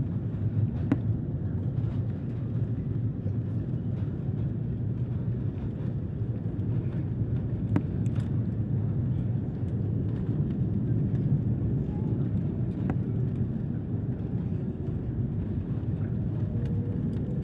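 Steady low rumble of a passenger airliner heard from inside the cabin, engine and airflow noise, with a few faint light clicks.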